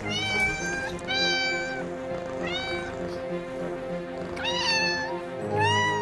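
Domestic cat meowing about five times, each call short with a rise and fall in pitch, over soft background music.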